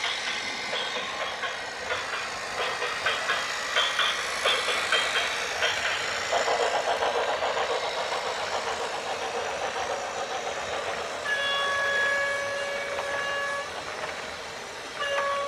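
Dense rattling clatter for the first few seconds, then a steady multi-tone horn blast lasting about two seconds past the middle, with the same horn starting again at the very end.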